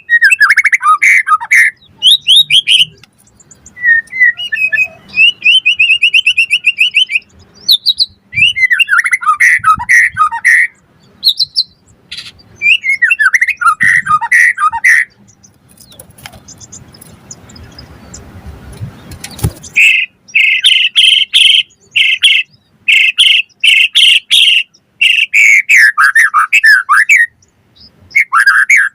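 White-rumped shama singing: loud, varied phrases of clear whistles and fast repeated trills, broken by short pauses. A soft hiss fills a gap in the middle.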